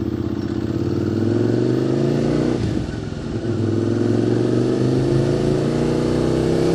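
QJ Motors SVT650X motorcycle with an Arrow Racetech exhaust accelerating: the engine note climbs, drops sharply at an upshift a little over a third of the way in, then climbs again through the next gear.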